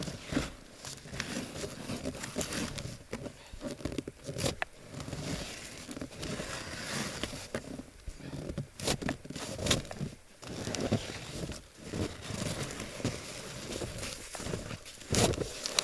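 Snow being shoveled off a roof: irregular crunching and scraping of a shovel cutting into packed snow, with sharp knocks scattered through, the loudest near the end.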